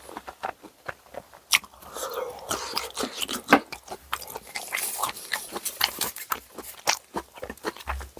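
Eating bossam (boiled pork): chewing and crunching with many irregular sharp clicks, two louder ones about one and a half and three and a half seconds in.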